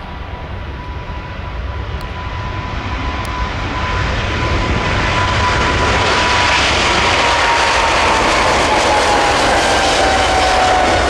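Boeing 777 freighter's jet engines at takeoff power, a loud roar that grows over the first few seconds, with a whining tone that slowly falls in pitch as the aircraft passes.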